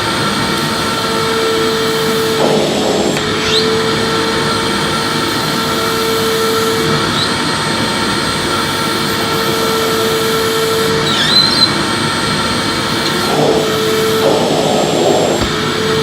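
Electric vacuum cleaner running while vacuuming: a steady loud rush of air with a hum that drops out now and then. Two rougher scraping passes, a few seconds in and near the end, and a couple of faint short squeaks.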